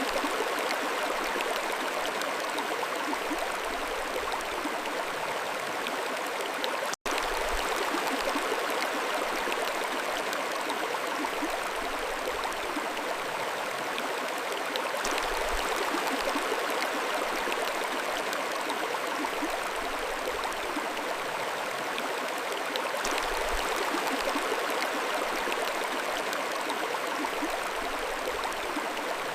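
Mountain stream flowing over rocks: a steady, even rush of running water, with a split-second gap in the sound about seven seconds in.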